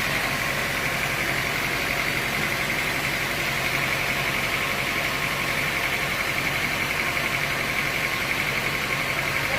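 Sawmill machinery running steadily, with a constant high hum over a low engine-like drone and no change in load.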